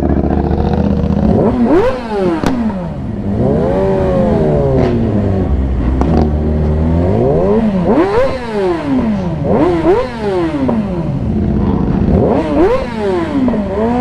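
Yamaha R6 sport bike's inline-four engine revving: its pitch climbs sharply and drops back about five or six times, with steadier low running near the start and again around the middle.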